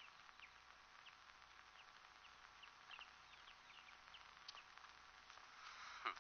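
Faint, scattered high-pitched bird chirps, many short falling notes, over a steady hiss, with a slightly louder short call near the end.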